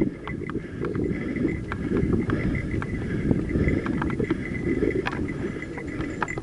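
Mountain bike rolling along a dirt trail: a steady low rumble from the tyres, with frequent small clicks and rattles from the bike over bumps.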